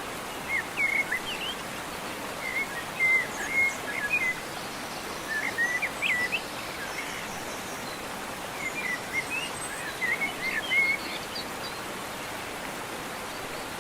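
Birds chirping in four short bouts of quick, bending chirps, over a steady background hiss.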